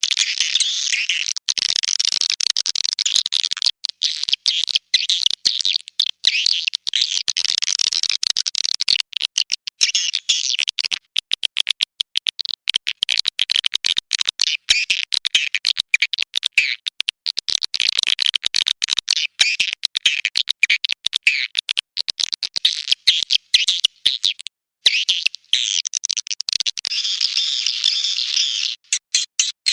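Swiftlet call recording (suara panggil walet): dense, high-pitched, rapid twittering chirps with very short gaps between them and a brief break about 25 seconds in.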